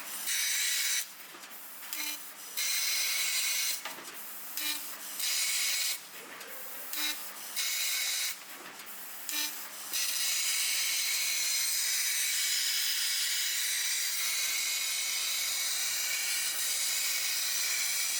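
6 kW fiber laser cutting machine cutting 5 mm carbon steel sheet: a loud hiss of the cutting jet, switching on and off in short runs with brief quieter gaps through the first ten seconds, then running without a break for the rest.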